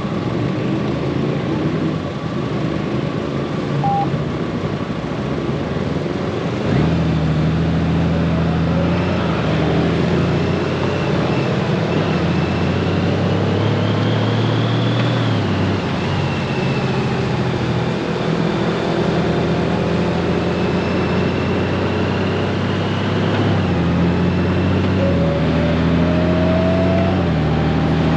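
Honda Gold Wing DCT's flat-six engine running under way, with steady road and wind noise; the engine note holds flat and shifts pitch in steps several times.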